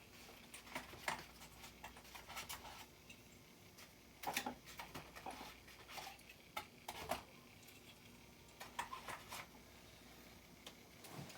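Faint, scattered clicks and taps of small die-cast toy vehicles being handled, with a louder cluster of knocks about four seconds in and a sharp tap about seven seconds in.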